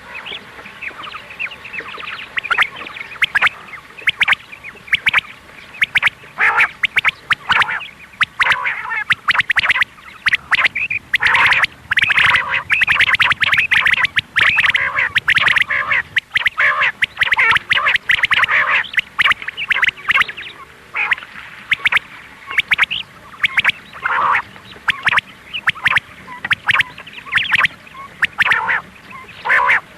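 Recorded quail calls, the female quail call played as a hunting lure: a rapid, continuous run of short calls, busiest in the middle.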